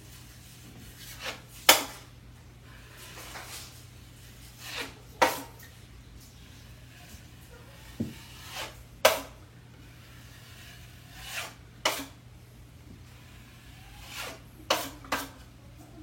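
Drywall knife scraping all-purpose joint compound, in short strokes every few seconds, each ending in a sharp scrape or clack.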